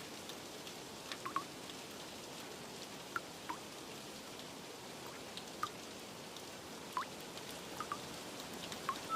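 Steady rain hiss with scattered drops plinking irregularly, about a dozen short drips.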